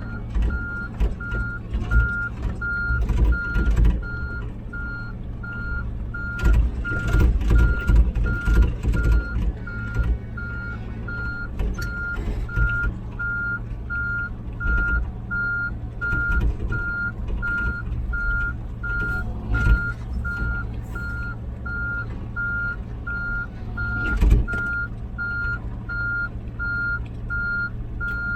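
Komatsu PC16 mini excavator travelling on its tracks: its travel alarm beeps steadily at about two beeps a second over the running diesel engine, with scattered clanks and knocks from the machine on rocky ground.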